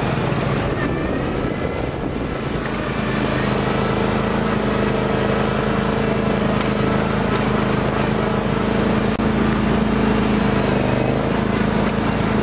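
Small engine of a riding lawn tractor running steadily.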